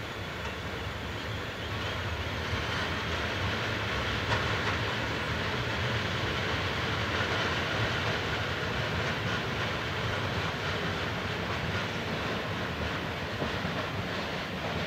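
A metre-gauge Gem 4/4 locomotive and loaded ballast hopper wagons rolling slowly over station points. It makes a steady rumble of wheels on rail with faint repeated clicks over the joints and frogs. The sound swells about two seconds in.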